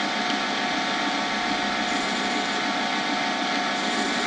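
Lathe running steadily with a constant motor whine as the cutting tool takes a facing pass across the end of a cast shift-knob blank.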